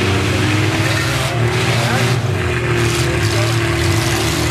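Demolition-derby minivan and pickup engines running under load, with a low rumble and steady engine tones over a dense wash of noise.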